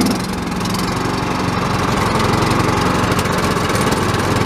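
Riding lawn mower's small engine running steadily at full throttle, a little louder toward the end.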